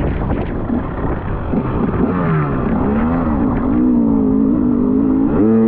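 Off-road motorcycle engine revving as it is ridden, its pitch rising and falling from about two seconds in, over rough wind noise on the microphone.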